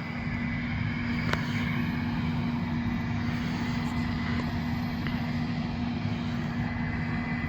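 Case 8250 combine running steadily while harvesting soybeans, a constant machine hum with a steady low drone and a faint high whine.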